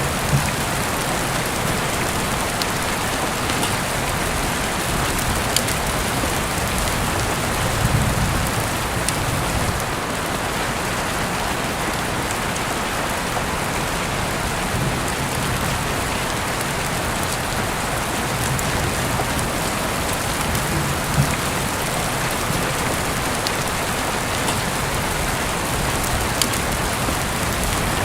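Heavy rain falling steadily, heard through an open window, with a hiss of rain and scattered individual drops ticking on nearby surfaces.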